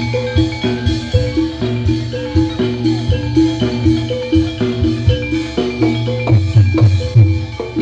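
Live Javanese rewo-rewo dance music: tuned mallet-struck percussion plays a fast repeating melodic pattern over a steady drum layer. Heavier drum strokes come in near the end.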